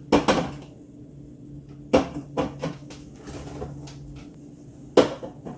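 A few sharp knocks and clatters from a refrigerator-freezer door and packed food being handled, one about two seconds in, a quick pair just after, and a louder one near the end, over a low steady hum.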